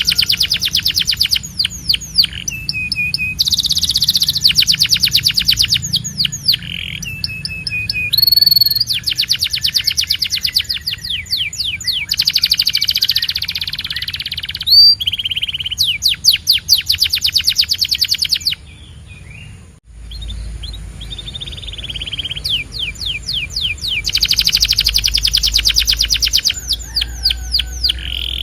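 Canary singing: rapid trills of repeated high notes in phrases of one to a few seconds, with short pauses and held whistled notes between them. The song breaks off briefly about two-thirds of the way through, then resumes with a low hum underneath.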